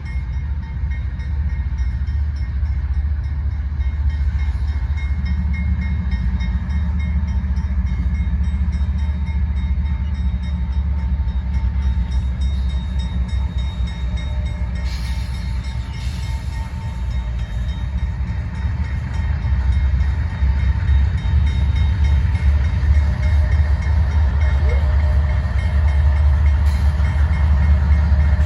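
CSX train rolling past on the rails: a steady heavy low rumble of the cars and wheels, with faint thin ringing tones above it and a few brief sharp noises from the wheels about halfway through and near the end.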